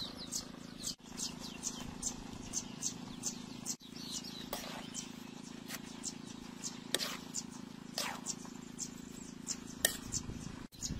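Small birds chirping in quick, short, high calls, several a second, over a steady low hum; the sound drops out briefly three times.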